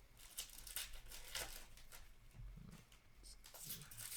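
Upper Deck hockey trading cards being handled and flipped through, with short papery swishes and crinkling; several quick swishes early on and a cluster near the end.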